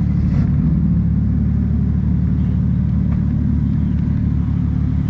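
A car engine running steadily at idle, a constant low rumble.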